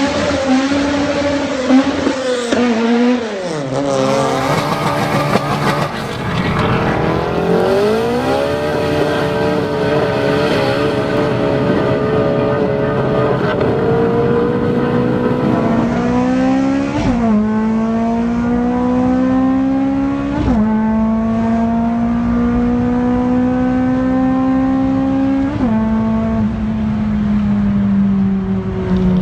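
Honda K20 2.0-litre four-cylinder engine pulling hard under acceleration. At first it holds steady revs, dips and climbs again. In the second half the pitch rises steadily, then drops sharply at each of three upshifts.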